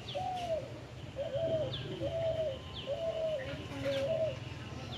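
Bird calling: a run of five short, low, even notes about a second apart, stopping near the end, with quick falling high chirps from another bird over them.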